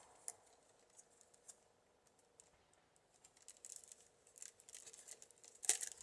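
Bird-cherry rods rustling and creaking faintly as they are woven through a wicker basket's uprights, with a sharp crackle near the end as the rod breaks off.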